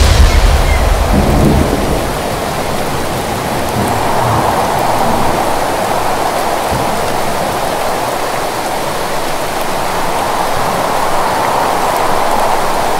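Thunderstorm: a steady hiss of heavy rain, with a low rumble of thunder fading over the first two seconds.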